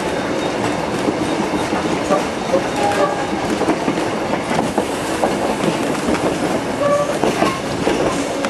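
Passenger train carriage rolling along the track, heard from on board: a steady rattle and clatter of wheels on rails, with a few brief metallic squeals.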